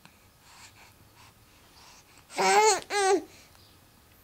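Baby babbling: two short, high-pitched vocal sounds in quick succession about two and a half seconds in, each wavering in pitch.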